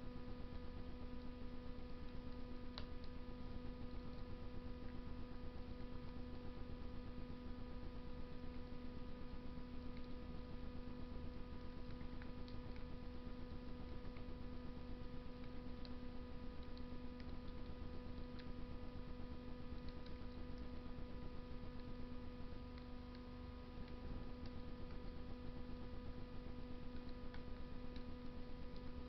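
Wood fire burning in a Russian masonry stove, giving faint, scattered crackles every few seconds over a steady, louder hum.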